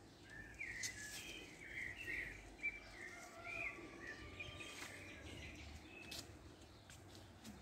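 Birds chirping in a run of short calls through the first half, over a low rumble of wind on the microphone, with a few sharp ticks.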